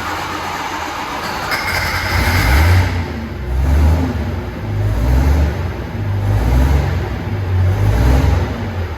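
Pulling tractor's turbocharged engine being revved, the deep engine note swelling and falling back about every second and a half.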